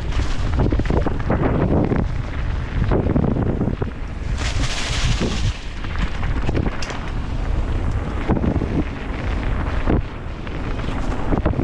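Wind buffeting the microphone of a mountain bike's ride camera during a descent, with many short knocks and rattles from the bike over rough ground. A burst of hiss rises about halfway through.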